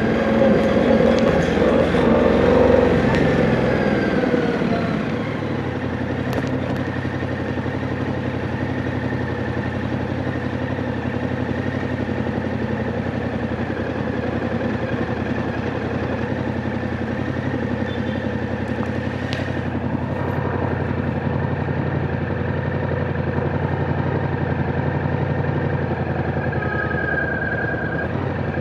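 Yamaha MT-07's parallel-twin engine, its revs falling over the first few seconds as the bike slows, then running at a steady low engine note for the rest of the time.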